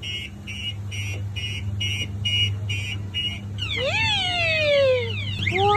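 Electronic sound effects of a coin-operated kiddie airplane ride: a regular run of about nine short beeps, about three a second, then warbling siren-like sweeps from about three and a half seconds in, over a steady low hum.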